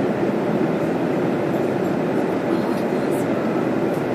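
Steady aircraft cabin noise: the even rumble of engines and airflow heard from inside an airliner in flight.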